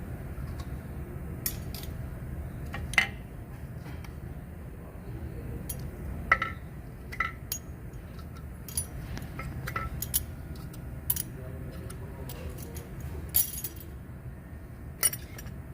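Metal tools and engine parts clinking and clanking at irregular intervals, a few strikes ringing briefly, over a low steady hum.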